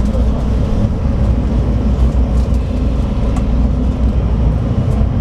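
Scania DSC9 diesel engine of a 2007 Scania K340IB coach running steadily under way, a continuous low rumble with road noise and a few faint clicks or rattles.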